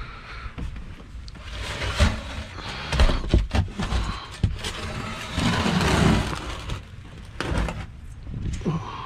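Scrap being handled: a series of sharp knocks and clanks, with a longer, louder clatter about five to six and a half seconds in.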